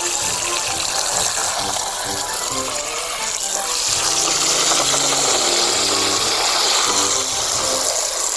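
Water spraying and running in a toy car wash as toy cars are rinsed, the spray growing louder about halfway through. A simple tune of short notes plays underneath.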